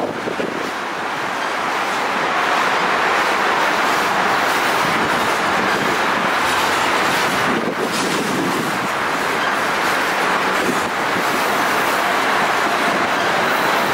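Train rolling past, the steady noise of its steel wheels running on the rails.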